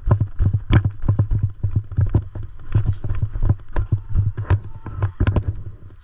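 Footsteps of a player running, close to the microphone: rapid, uneven thuds, several a second.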